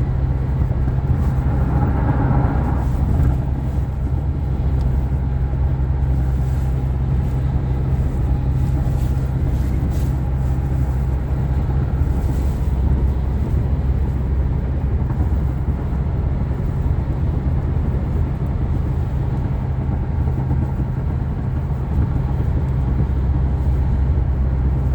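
Steady low engine and road drone inside the cab of a vehicle driving at speed.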